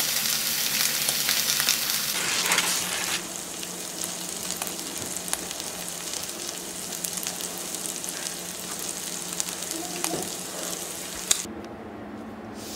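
Makchang pieces sizzling and crackling in hot oil in a frying pan. The sizzle is loud at first and drops to a quieter, steady crackle about three seconds in. It cuts off abruptly near the end.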